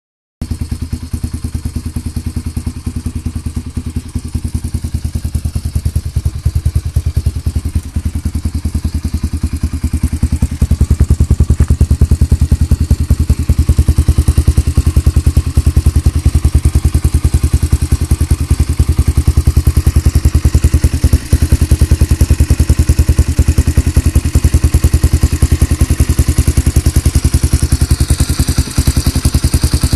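Yamaha XTZ125's single-cylinder four-stroke engine idling steadily through an aftermarket titanium muffler on a homemade mid-pipe, with an even stream of exhaust pulses. It gets louder about ten seconds in and stays at that level.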